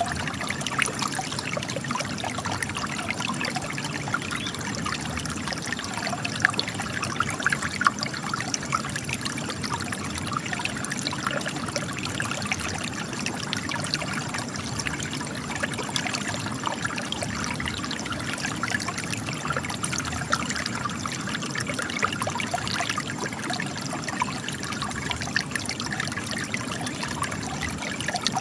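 Spring water trickling and splashing steadily over rocks, a continuous stream of small drips and gurgles.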